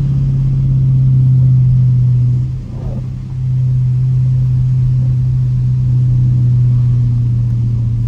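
Dodge Challenger R/T's Hemi V8 droning steadily at low speed, heard from inside the cabin as the car coasts and slows in traffic. There is a brief dip in the drone about two and a half seconds in.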